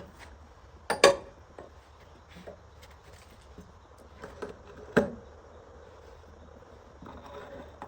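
A few sharp knocks over low background noise. The loudest is a quick double knock about a second in, with another single knock about five seconds in and some smaller ticks between.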